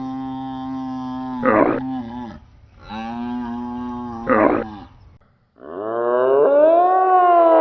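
Two long, steady, low animal calls, each with a short rough burst near its end and a pause between them. About two seconds before the end, a different call begins, gliding up and down in pitch.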